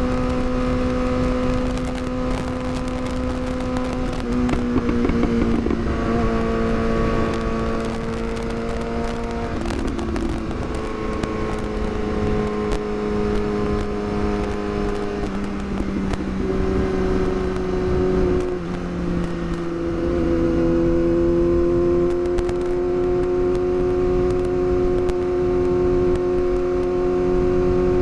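Yamaha R6's inline-four engine running at a steady cruising pace, its pitch stepping down a few times and then rising slightly about two-thirds of the way in, with wind rushing over the microphone.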